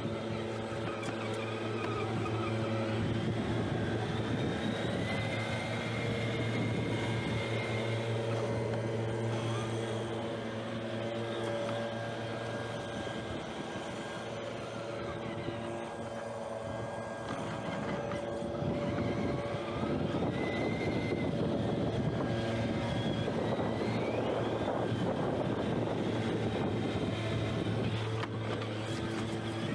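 A steady motor hum holding one pitch, with a couple of short rising whines over it.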